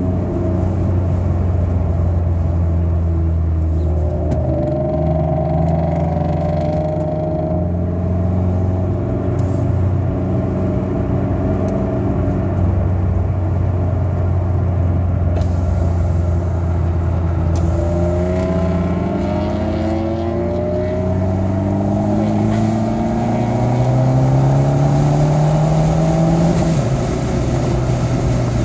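Car engine heard from inside the cabin, running at a steady pace and then rising in pitch under acceleration several times, with a sudden drop in pitch near the end. Road and wind noise run underneath.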